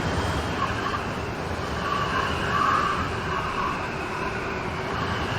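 Steady rain, mixed with a hum of road traffic, with a higher wavering sound swelling briefly about two to three seconds in.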